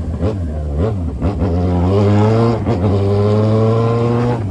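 Yamaha XJ6's 600 cc inline-four engine running through a 3-inch aftermarket exhaust under way. Its pitch falls briefly about a second in, then rises and holds steady.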